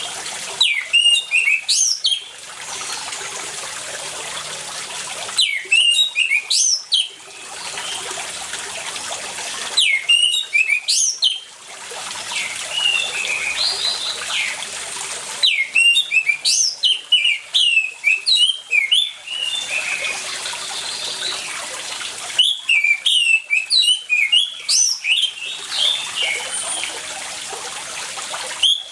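Orange-headed thrush song in loud bursts of quick, rising and falling whistled phrases, coming every few seconds. Between the bursts a steady trickle of running water fills the gaps.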